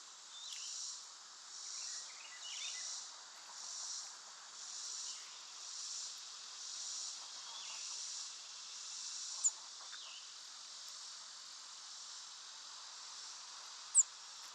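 Insects singing in a high shimmering drone that pulses about once a second, then settles into a steady hum. Faint bird notes sound in the background, and two short, sharp, very high chips cut through, one about halfway in and one near the end.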